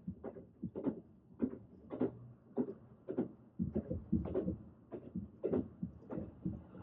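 Train wheels clacking over rail joints as the train runs, a steady rhythm of knocks a little under two a second over a low rumble.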